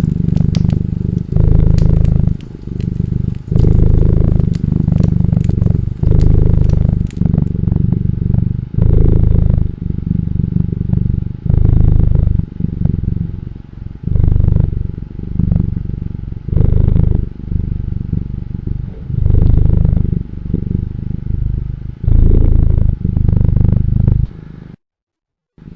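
Domestic cat purring close up, a loud low rumble that swells and dips about once every second and a half with its breaths, over a wood fire crackling with sharp pops, most of them in the first seven seconds. The sound cuts out briefly a second before the end.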